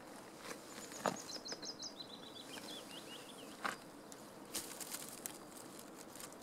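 A small songbird sings one short song: a quick run of high repeated notes, then a lower run of falling notes. A few sharp knocks occur over a steady open-air hiss, the loudest about a second in.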